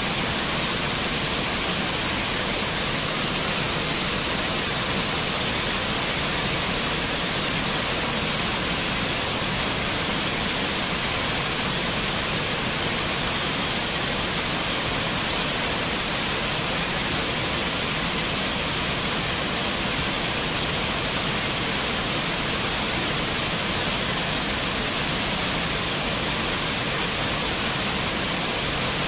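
Steady, unbroken rush of running water, like a small waterfall or fast stream, with no bird calls standing out.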